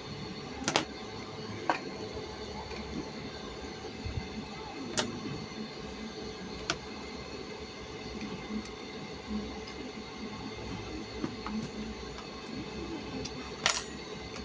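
Scattered sharp clicks and knocks of parts being handled during a washing-machine drain-pump repair, about five in all with the loudest near the end, over a steady background hum.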